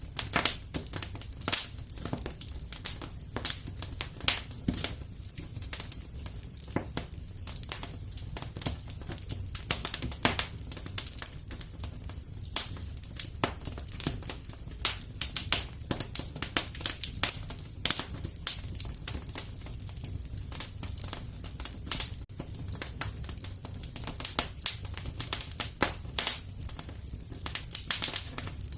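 Fireplace fire crackling: irregular snaps and pops, a few every second, over a steady low noise of the flames.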